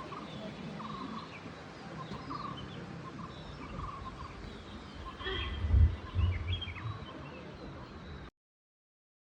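Birds calling over and over in short chirps, with a brief loud low rumble a little past the middle. The sound cuts off abruptly about a second before the end.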